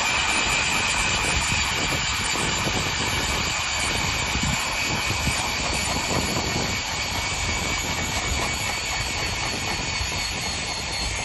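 Powered ice auger running steadily while drilling a hole through thick lake ice, with a continuous high motor whine over a dense noise.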